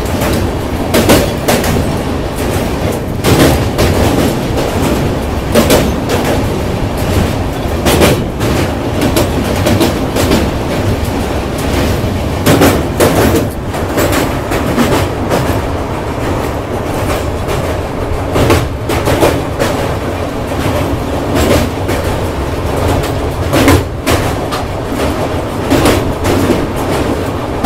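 Humsafar Express passenger train running across a steel truss bridge, heard through an open coach door: a loud, steady rumble of wheels on rails, broken by sharp clacks about every two seconds.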